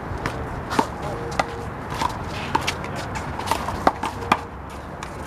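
Rubber one-wall handball (big blue ball) being slapped by open hands and smacking off the wall and concrete court in a rally: about eight sharp smacks at irregular half-second to one-second gaps, a few louder than the rest.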